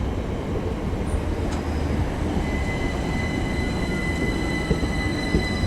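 Class 387 Electrostar electric multiple unit running into the platform: a steady low rumble, with a high, steady squeal that grows stronger about two seconds in.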